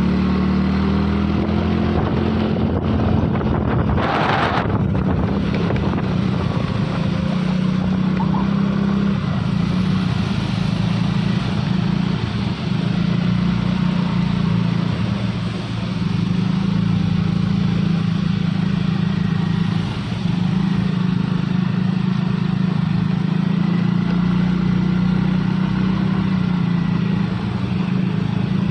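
Isuzu-based home-built truck's diesel engine working hard at steady high revs while climbing a steep grade, with a short burst of noise about four seconds in.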